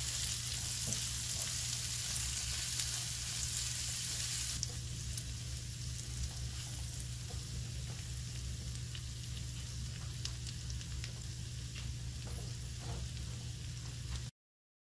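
Dried anchovies sizzling in an oil and corn-syrup gochujang glaze in a nonstick frying pan, stirred with a wooden spatula with a few light clicks. The sizzle is louder for the first four seconds or so, then settles lower, over a steady low hum, and the sound cuts off suddenly near the end.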